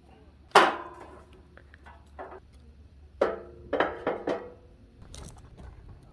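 Metal objects clanking: one loud knock about half a second in and four more between about three and four and a half seconds, each ringing briefly.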